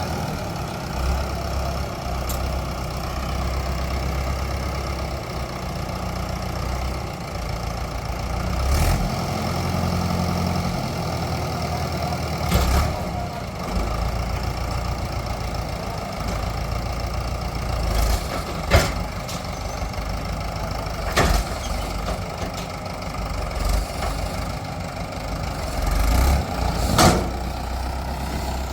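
Heavy diesel machinery engine running steadily, with a few swells in level and several sharp knocks spread through the stretch.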